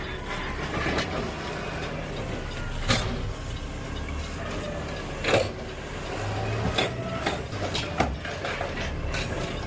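Garbage truck running, with a steady low engine rumble and several sharp knocks and rattles, the loudest about three and five seconds in.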